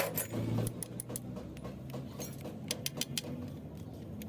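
Irregular sharp metallic clinks and taps, like tools and metal parts being handled, over a low hum that fades in the first second or two.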